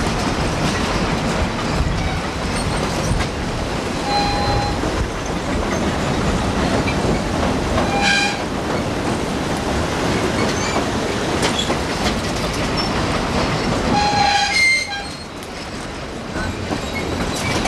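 Narrow-gauge passenger train running on the track, heard from aboard: a steady rumble and rattle of the cars. Three brief high-pitched tones come a few seconds in, near the middle and about three-quarters through, the last one the longest.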